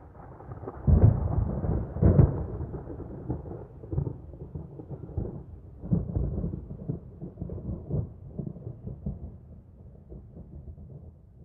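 Thunder rumbling, with two loud peaks about one and two seconds in, then rolling on unevenly and slowly fading.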